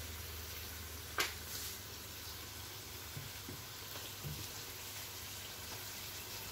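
Chicken pieces frying in ghee and onion masala in an aluminium pot, a steady low sizzle. A sharp click about a second in and a few soft knocks a little later.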